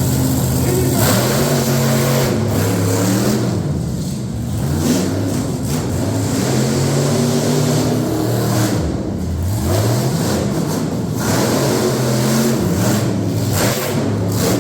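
Monster truck engine revving hard and repeatedly, its pitch climbing and dropping again about every two seconds.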